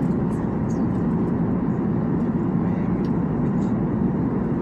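Steady cabin noise of a jet airliner in flight on its descent: a constant low rumble of engines and airflow heard from inside the cabin.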